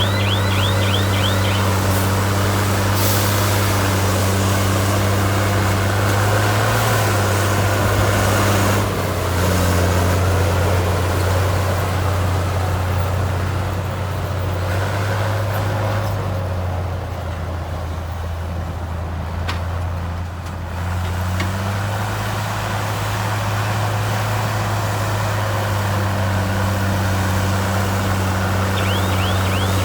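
Heavy diesel engine of earthmoving machinery running steadily under load, its engine note dropping about a third of the way in and rising back again about two-thirds through.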